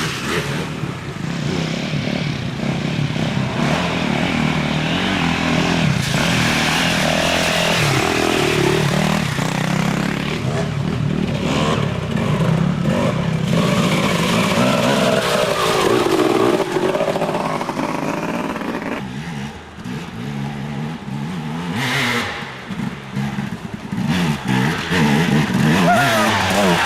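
Dirt bike engines revving as off-road motorcycles ride past, their pitch rising and falling as the riders work the throttle. The engines dip briefly about two-thirds of the way through.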